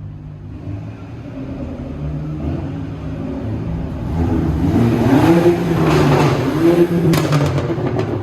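An Audi TT accelerating hard, the engine note growing louder and swinging up and down in pitch, with a few sharp exhaust pops near the end.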